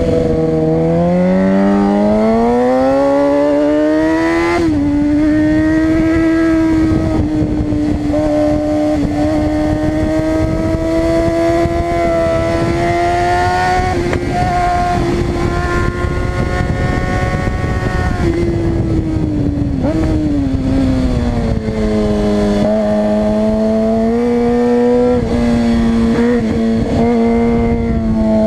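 Suzuki GSX-R600 sport bike's inline-four engine at high revs on a race track. It climbs for a few seconds, changes up a gear, then holds a high, fairly steady note before dropping lower past the middle, all over heavy wind rush.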